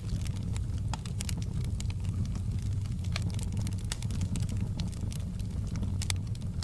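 Wood fire burning in a fireplace, with a steady low rumble and irregular sharp crackles and pops.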